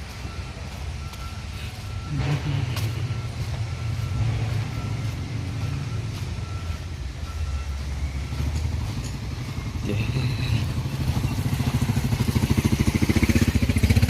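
A motor vehicle's engine running, growing louder toward the end with a rapid pulsing.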